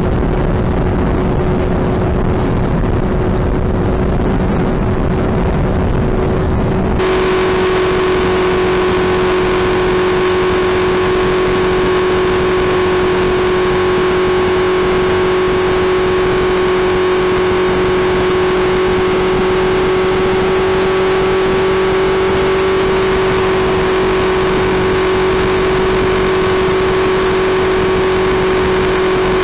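Suzuki Hayabusa's inline-four engine running at a steady, nearly constant speed, a continuous drone. For the first seven seconds wind rush on the microphone covers it; then the sound changes abruptly and the engine note stands out clearly, holding steady.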